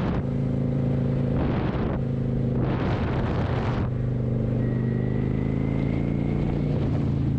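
Kawasaki motorcycle engine running at a steady pitch while riding, with two brief rushes of noise in the first half.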